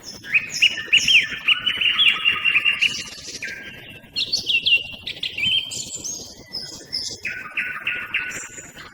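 Songbird singing loudly at close range: a fast run of rapidly repeated notes, then a few higher, varied phrases, then another fast run of repeated notes near the end.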